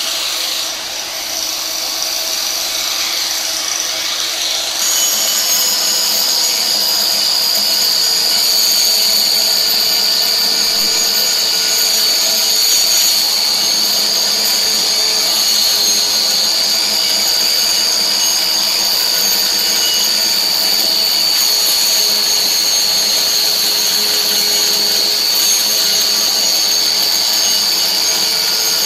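A power tool running continuously with a steady high-pitched whine, growing a little louder about five seconds in.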